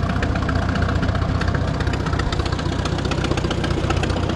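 Farmall A tractor's four-cylinder engine running steadily, driving a King Kutter finish mower through the PTO. The mower runs quietly on freshly replaced and greased bearings.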